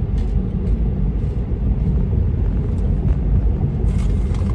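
Steady road noise inside a moving car's cabin: a low rumble of tyres and engine at highway speed, with a few faint clicks.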